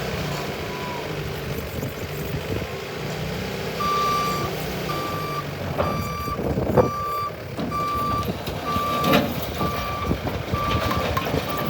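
Bobcat T770 skid steer's diesel engine running, with its reversing alarm starting about four seconds in and beeping steadily, a bit more than once a second, as the machine backs up. Two sharp clanks stand out, the louder one about seven seconds in.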